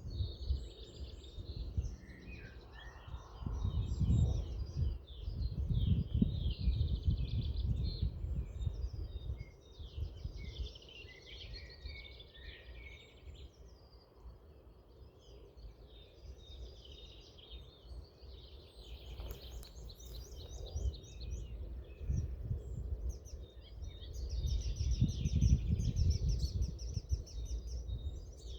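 Several small songbirds singing and chirping at once, with no clear black woodpecker call standing out. Under them runs a low rumble that swells twice, which is the loudest part.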